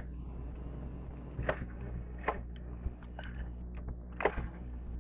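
Razor MX350 electric dirt bike being ridden: its motor gives a steady low hum, with about five sharp clicks and knocks scattered through.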